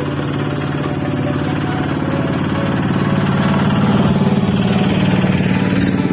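Engine of a palm-fruit lifting truck running steadily, growing gradually louder.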